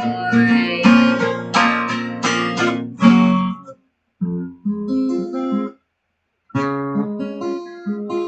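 Acoustic guitar strumming chords, then picking quieter single notes, with two short breaks in the playing; the sung end of the last line fades out in the first half-second.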